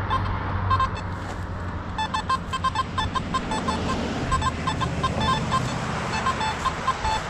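Metal detector giving many short beeps at one fairly high pitch, irregularly spaced as the coil sweeps back and forth, signalling buried metal under the coil.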